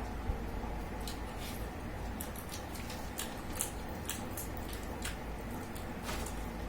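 Eating sounds: wet smacks and small clicks of chewing and biting on tandoori roast chicken, irregular and a few per second, over a steady low room hum.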